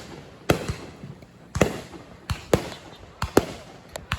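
Fireworks exploding in an uneven string of sharp bangs, about two a second, each trailing off in a brief echo.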